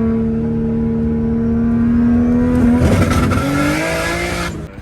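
Borg Warner single-turbo 1JZ-GTE inline-six held at a steady rpm on its two-step limiter with antilag. About three seconds in it breaks into crackles and pops, then the revs climb with a rush of turbo hiss before the sound cuts off sharply near the end.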